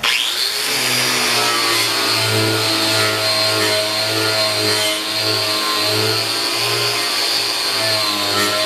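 Angle grinder with a paint-and-rust stripping disc switched on and spinning up, then running steadily as the disc is pressed onto steel plate to strip old paint, its whine dipping and recovering under load.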